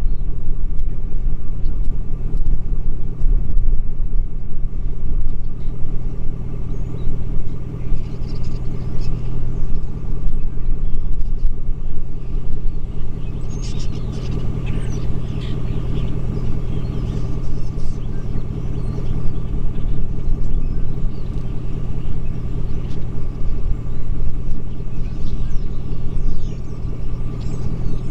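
Vehicle engine running steadily with a low rumble while being driven, with faint high chirps in the middle of the stretch.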